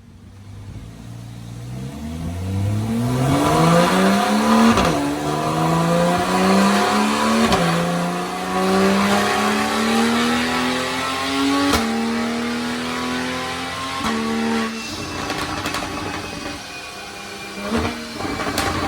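Corvette Z06's V8 accelerating hard through the gears, its note rising and dropping sharply at each of four upshifts, then settling to a lighter, steadier run near the end.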